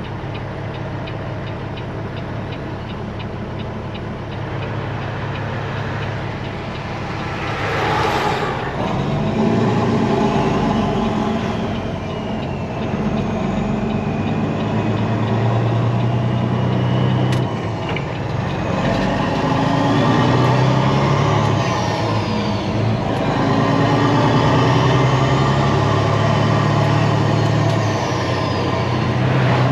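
Peterbilt 379 semi truck's diesel engine running through straight pipes under way, its note rising and falling in pitch as it pulls. There is a brief burst of noise about eight seconds in.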